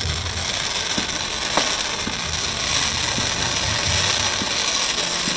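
Fireworks display crackling, a steady rattling hiss with scattered sharp pops.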